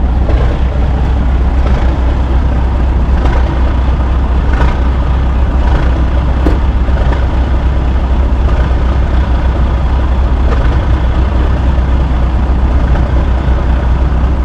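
A large truck engine idling close by, running steadily with a heavy low note.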